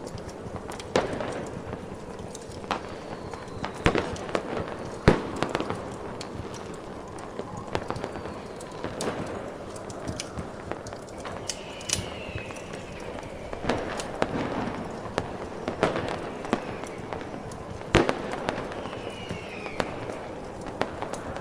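Fireworks going off: scattered sharp bangs and crackles, the loudest about five seconds in and again near eighteen seconds, over a steady hiss of snowstorm wind. A couple of short falling whistles come in around the middle and near the end.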